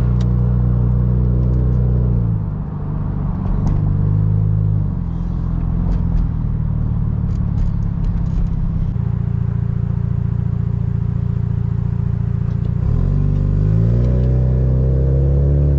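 Car engine heard while driving. The engine note drops about two seconds in, holds fairly steady, then rises near the end as the car accelerates.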